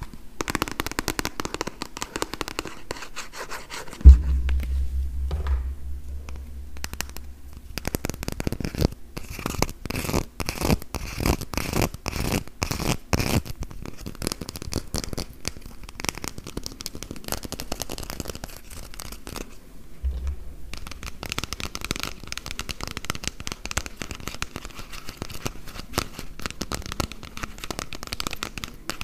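Fingertips and nails tapping and scratching quickly on hollow plastic food items in a dense, uneven run of small clicks. About four seconds in a loud low thump is followed by a low rumble for a few seconds, and a weaker thump comes near twenty seconds.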